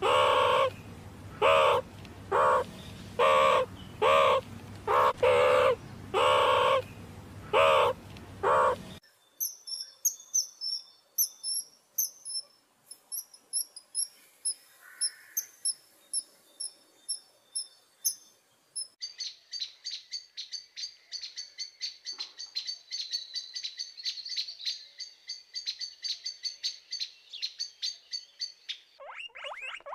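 A meerkat calls about a dozen times in short, regular cries. Then a kingfisher gives thin, high chirps. From about two-thirds of the way in, a crimson sunbird sings a fast, steady trill that stops just before the end.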